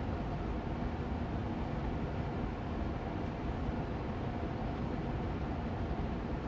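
Austin Air Allergy Machine air purifier fan running steadily on medium speed: an even rush of air with a gentle hum, with no change in level.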